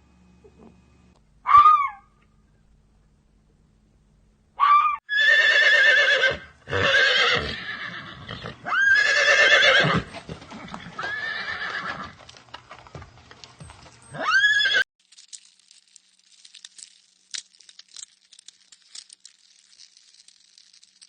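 A farm animal calling about six times: long calls with a wavering, quavering pitch, each lasting about a second, packed closely together in the middle. They stop suddenly, leaving only faint crackling rustles.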